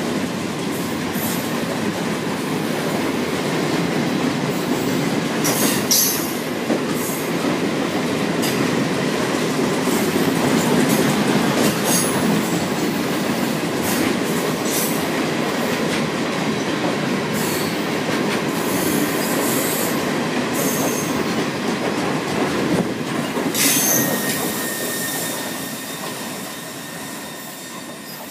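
Freight wagons loaded with steel coils rolling past on steel wheels, a steady rolling noise broken by many short clicks and knocks. Near the end a thin steady wheel squeal comes in as the last wagon moves away and the sound fades.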